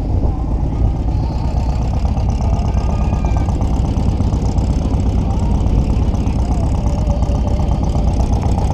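Air-cooled VW Beetle driving at a steady speed: a steady, loud low rumble of engine and road noise.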